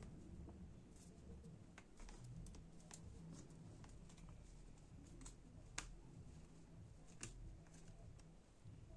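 Faint, scattered small clicks and taps of hands handling a laptop's plastic parts, over a low steady hum.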